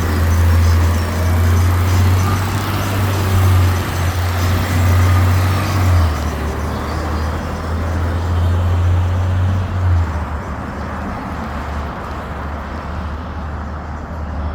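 Garbage truck's diesel engine running loud and steady, dropping back to a quieter run about ten seconds in.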